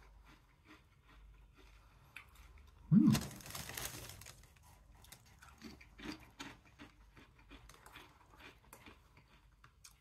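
A person chewing crunchy potato crisps close to the microphone, a run of small crackling crunches, with the loudest burst about three seconds in.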